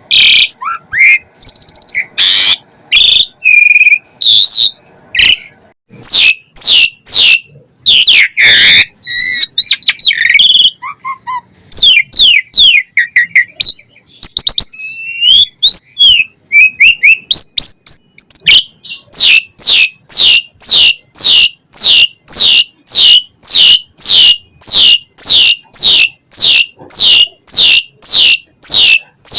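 Pied starling (jalak suren) singing at full volume. It gives a varied song of whistles and harsh notes, then, about two-thirds of the way in, a long run of quick falling notes, repeated two or three times a second.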